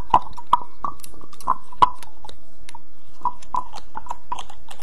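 Close-miked ASMR trigger sounds: irregular soft clicks and taps with wet, chewing-like mouth noises, bunched in the first two seconds and again near the end.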